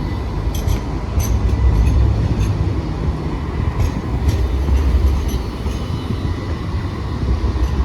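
Light rail tram running at the stop: a low rumble that swells twice, with scattered light clicks.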